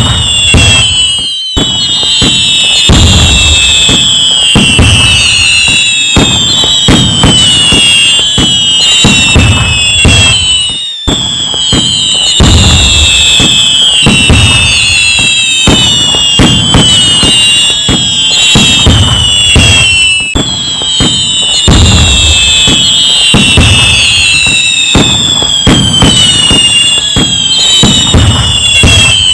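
Loud fireworks going off continuously: many whistling fireworks, most whistles falling in pitch, over dense bangs and crackling. The sound cuts out for an instant twice.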